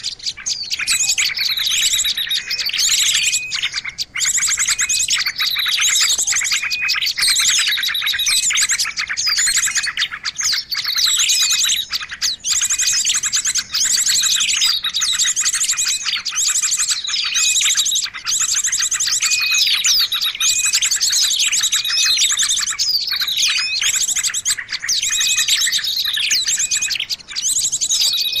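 Small songbirds chirping and trilling rapidly and without pause, many calls overlapping: a recorded bird-lure call (suara pikat) used to draw small wild birds in.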